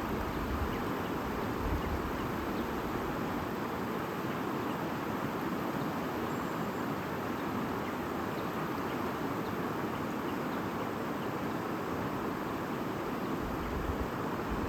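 Steady rushing and babbling of a flowing stream, with occasional low rumbles.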